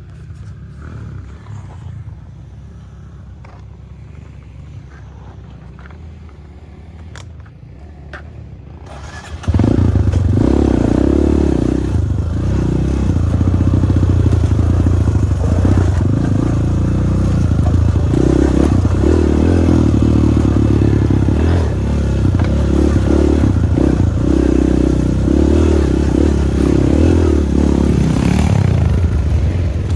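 Dirt bike engine, at first a quieter low rumble with a few sharp clicks. About nine and a half seconds in it turns suddenly loud and runs on, its pitch wavering up and down.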